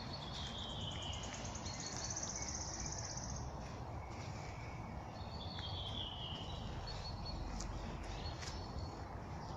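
Wild birds singing in a spring forest: two falling song phrases about five seconds apart and a fast, high trill, over a steady background hiss.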